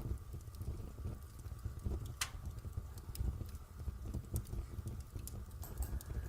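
Fire crackling in a fireplace: a steady low rumble with scattered sharp pops, one louder pop about two seconds in.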